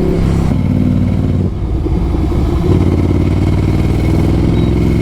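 Ducati Scrambler Icon's air-cooled L-twin engine running through an aftermarket full-system exhaust while riding. Its note drops about half a second in, dips briefly about a second and a half in, then pulls steadily.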